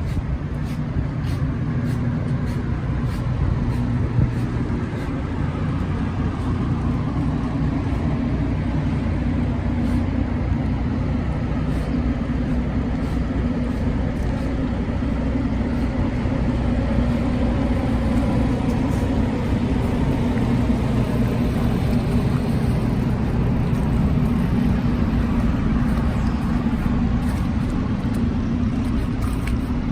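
Steady city street traffic: vehicle engines running with a continuous low hum and rumble.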